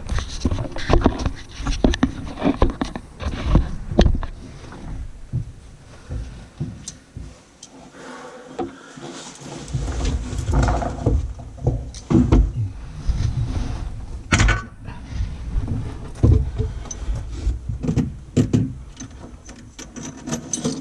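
Irregular clicks, knocks and metallic jingling of faucet parts and hardware being handled while a widespread lavatory faucet is fitted from beneath the basin. A sharper knock comes about two-thirds of the way through.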